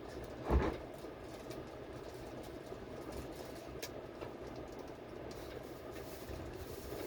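Running noise of a Seoul subway train heard from inside the car: a steady rumble, with one sharp thump about half a second in.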